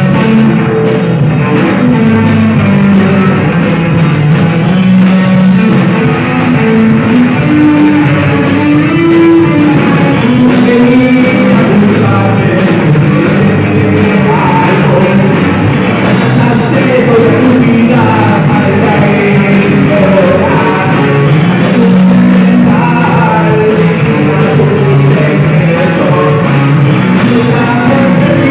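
Rock band playing loud and steadily, with a singing voice over the instruments.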